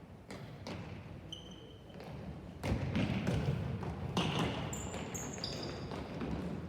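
Soccer ball being kicked and bouncing during a youth match: several dull thuds, with a few short high squeaks about a second and a half in and again around five seconds in.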